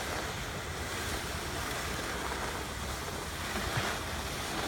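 Wind buffeting the microphone outdoors in snow: a steady hiss with an uneven low rumble.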